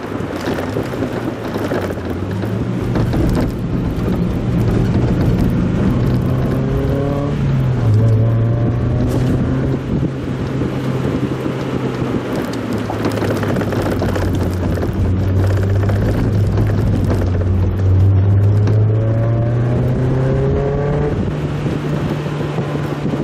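Mazda Roadster's four-cylinder engine running on the move, its pitch rising and falling with engine speed. The pitch drops sharply about eight seconds in and climbs again near the end. Wind and road noise run under it.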